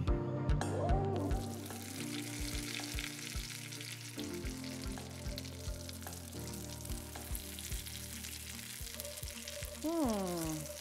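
Garri-and-crushed-peanut-coated chicken strips sizzling steadily as they fry in hot oil in a stainless steel frying pan, over background music with a steady beat.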